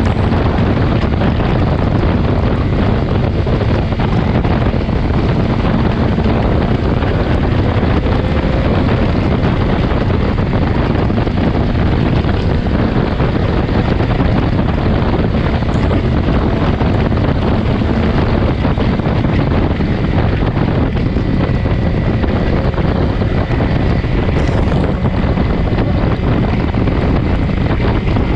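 Steady wind rush over the microphone of a BMW S1000XR motorcycle at riding speed, with the bike's inline-four engine note low beneath it.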